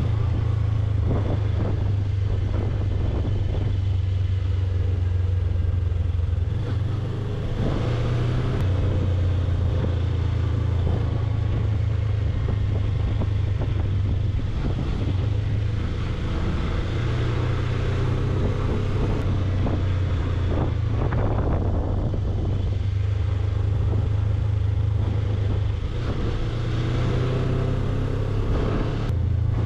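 Suzuki V-Strom 250's parallel-twin engine running steadily while the motorcycle is ridden, its low note shifting a little at a few points, with wind rushing over the microphone.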